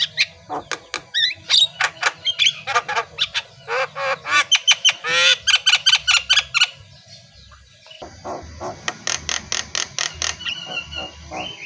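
Javan myna singing loudly: fast harsh chattering and clicking mixed with whistled and rising squeaky notes, easing into a brief lull about seven seconds in before the chatter starts again.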